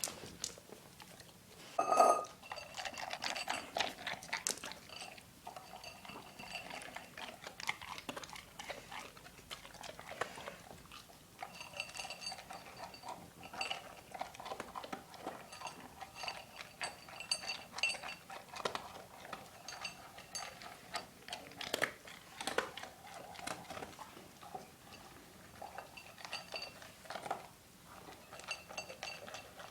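Dog eating from a bowl: irregular chewing and crunching with many clinks against the bowl that ring briefly, the loudest about two seconds in.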